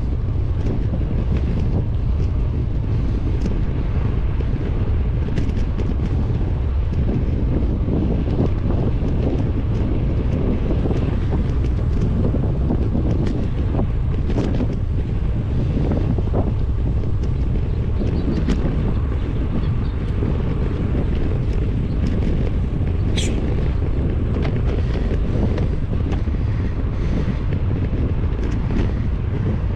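Wind buffeting the microphone of a helmet or handlebar camera on a moving bicycle: a steady low rumble with scattered small clicks and rattles. A brief high chirp about 23 seconds in.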